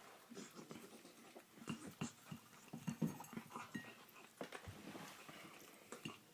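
Beagle puppy chewing and smacking at sticky purple potato tart that has stuck to the roof of her mouth: a quick, irregular run of short mouth smacks and clicks.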